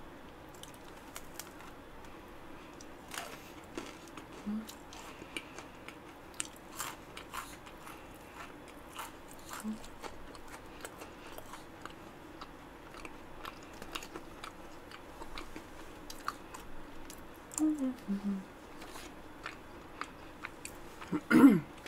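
Close-miked chewing of a matcha macaron with a Nutella chocolate filling, with small crisp clicks and mouth sounds throughout. A few short hums come through along the way, and a brief louder vocal sound comes right at the end.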